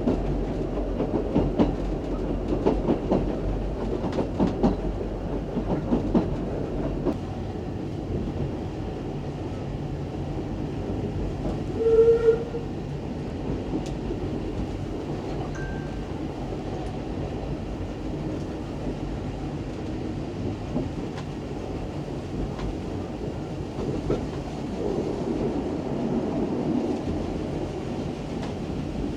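Isle of Man Steam Railway train running: a steady rumble with wheels clicking over the rail joints in the first several seconds. About twelve seconds in, a short, loud whistle note sounds once.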